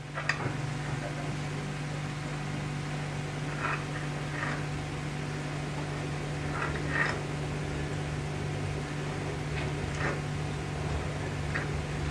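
A steady low machine hum with a few faint short ticks and knocks scattered through it.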